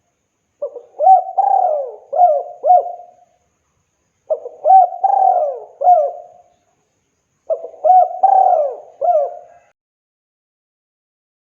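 Spotted dove (tekukur) cooing: three phrases of several coos each, every coo bending up and then down in pitch, each phrase lasting about two to three seconds with a pause between.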